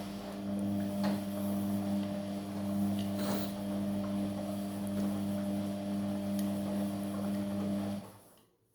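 Amica front-loading washing machine giving a steady electrical hum, with a faint hiss of water, during its 40 °C cotton programme; the hum cuts off about eight seconds in.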